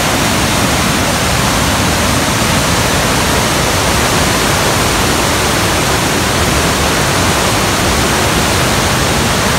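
Steady rush of a flood-swollen creek running fast through rapids and cascades.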